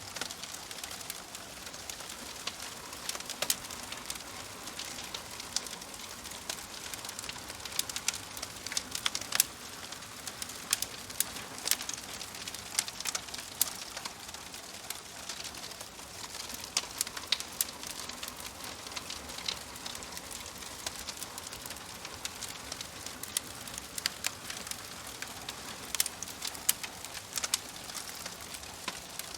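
Wood fire crackling in a wood-burning stove: a steady soft hiss with frequent irregular sharp pops and snaps.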